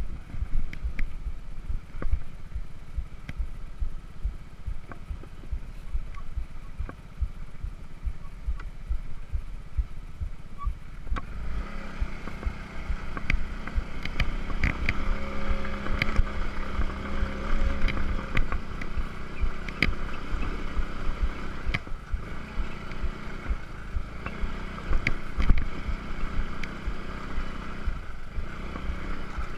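Moped engine running as the scooter rides over a rough sandy, stony track, with a low rumble, wind on the microphone and frequent knocks and rattles. About eleven seconds in the engine note comes up louder and stays strong.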